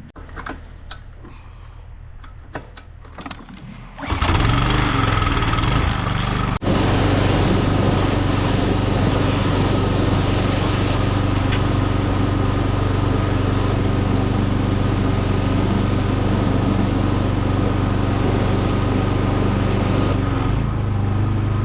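An engine starts abruptly about four seconds in, cuts out for an instant a couple of seconds later, then runs steadily and loudly.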